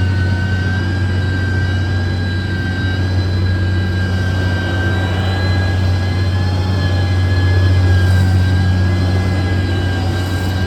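Heavy road-construction machine's diesel engine running steadily: a deep low drone with a steady high whine on top, swelling slightly near the end.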